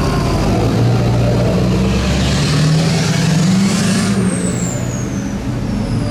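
A truck engine revving, its note rising for a couple of seconds while a hiss builds, then the revs dropping about four seconds in with a high whine falling in pitch.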